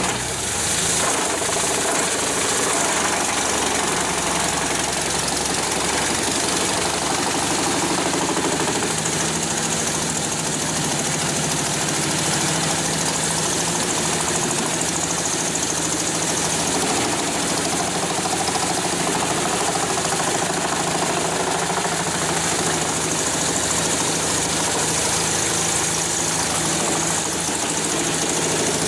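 A heavy machine's engine running steadily, with a constant hum under a dense hiss.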